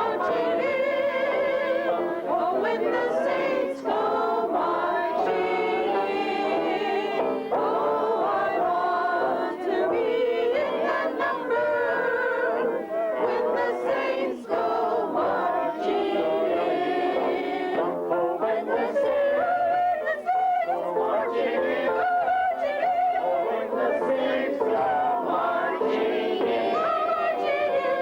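A choir of children's voices singing a song together, the sustained notes wavering with vibrato.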